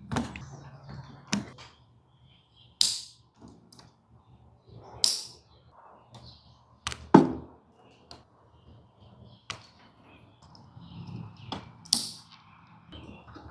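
Hand work on small electronics wiring: scattered sharp clicks and snaps of tools and wires a second or two apart, some with a brief hiss, and a heavier knock about seven seconds in.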